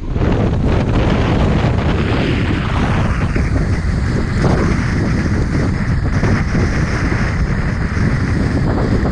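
Tropical-storm wind at gale strength buffeting the microphone in a continuous heavy rumble, over a rushing hiss of wind and surf that thins out about three seconds in.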